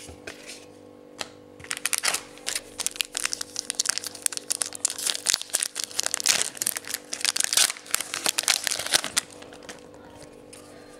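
Foil wrapper of a trading-card pack being torn open and crinkled by hand: a dense crackling run of tearing and rustling that dies away near the end.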